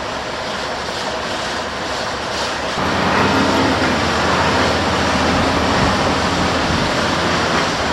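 A large engine running steadily, growing louder about three seconds in with a steady low drone that holds.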